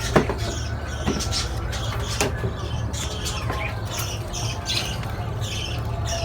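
A roomful of caged parrots, budgerigars among them, chirping and squawking over one another. A few sharp knocks come near the start and around one and two seconds in, over a steady low hum.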